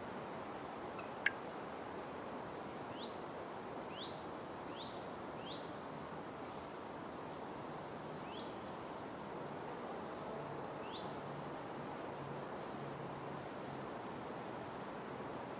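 Forest ambience: a steady background hiss with birds giving short, quickly rising chirps every second or few. Soft low hooting calls repeat through the second half. A single sharp click comes about a second in.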